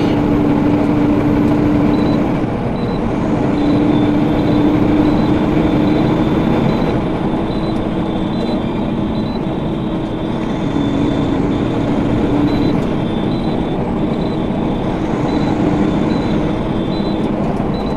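Steady engine and road noise of a semi truck heard from inside its cab, with a light regular ticking about twice a second through most of it.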